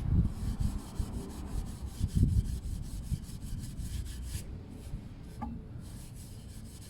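Scouring pad scrubbing a stainless steel motorcycle exhaust pipe coated in toilet cleaner, in repeated rubbing strokes, working off burnt-on black deposits; the strokes ease off about four seconds in.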